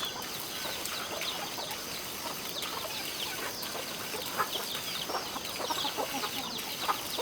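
Chickens calling: a dense chorus of short, high peeping calls that fall in pitch, with occasional lower clucks among them.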